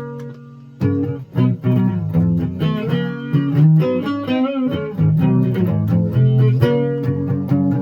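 Guitar music: plucked notes over a low bass line, with a short drop in level in the first second before it picks up again.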